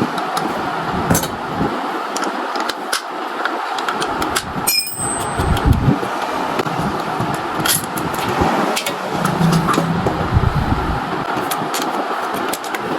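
Steady traffic and street noise with low rumbles coming and going, and scattered sharp metallic clinks.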